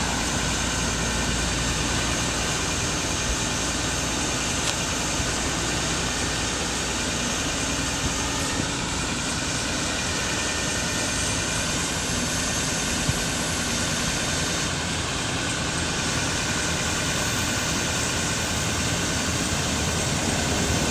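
Ford F550 bucket truck's engine running steadily at idle.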